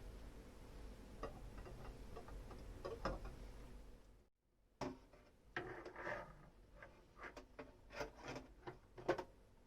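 Light clinks and knocks of dishes and utensils being handled while washing up, sparse at first and coming more often after a brief dead-silent gap about four seconds in.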